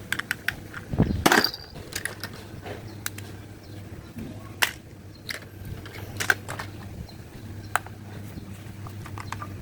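Irregular clicks and knocks of hard objects being handled and set down, with one louder clatter about a second in, over a faint steady hum.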